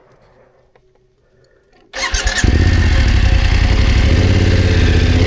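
BMW F900GS parallel-twin engine started on the electric starter about two seconds in, catching almost at once and settling into a steady idle.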